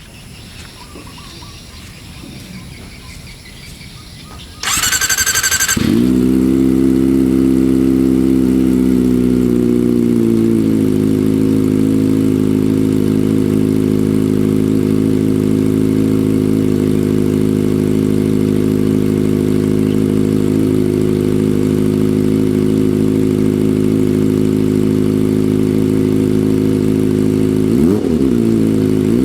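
Kawasaki ZX-25R's 250 cc inline-four through a GP Tech Zeus Short aftermarket exhaust, cranked by the starter for about a second and catching about five seconds in. It runs at a raised idle, then settles to a steady lower idle around ten seconds in, with a quick throttle blip near the end.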